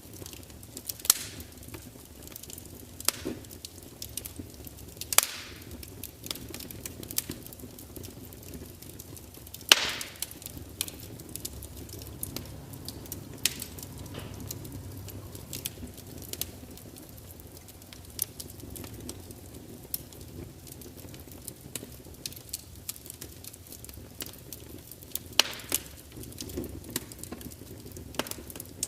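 Wood fire of burning logs in a large fireplace, crackling steadily over a low rumble of flame, with sharp pops and snaps of spitting wood; the loudest snaps come about 1, 3, 5 and 10 seconds in and twice near the end.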